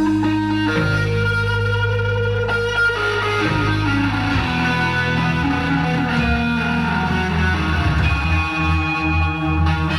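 Rock band playing live: electric guitar holding long ringing notes over bass guitar.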